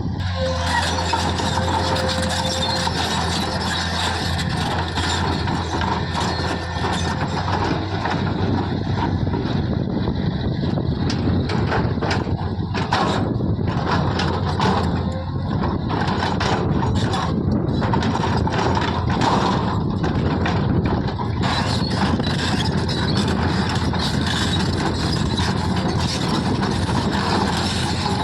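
Diesel engine of a JCB 3DX backhoe loader running steadily under working load, with repeated knocks and clatter through the middle.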